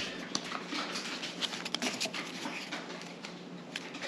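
Pokémon trading cards being handled and flicked through, a run of small clicks and rustles.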